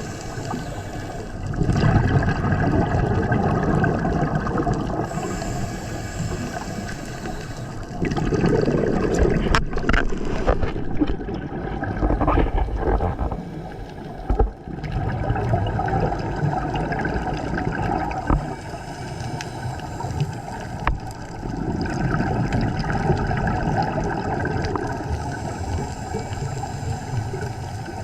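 A diver breathing through a scuba regulator underwater: hissing inhalations alternate with rushing bursts of exhaled bubbles, each lasting a few seconds.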